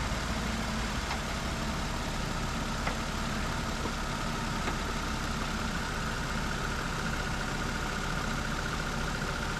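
Car engine idling steadily with the air conditioning switched on, heard under the open hood. A faint steady whine comes in and grows a little stronger about halfway through.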